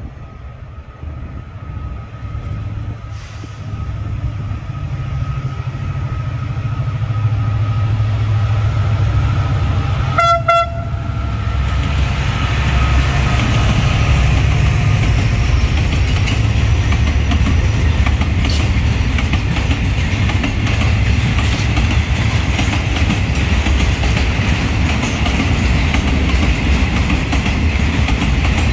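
A QSY-class diesel-electric locomotive hauling a container freight train approaches with a low engine rumble that grows louder. It sounds one short horn blast about ten seconds in. Then the loaded container flat wagons roll past with steady wheel-on-rail clatter.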